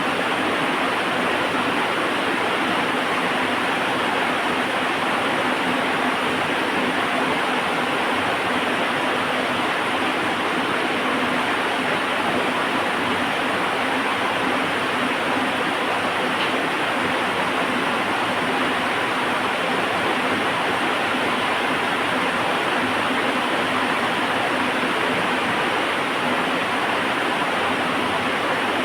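Heavy rain falling steadily, an even, unchanging hiss.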